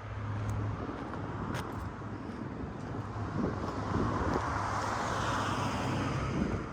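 City street traffic: cars going by. A vehicle passes closer in the second half, growing louder and then falling away near the end.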